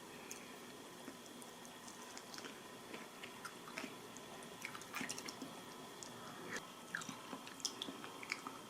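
Faint scattered small clicks and taps, several a second, with a few slightly louder ones around five seconds in and near the end.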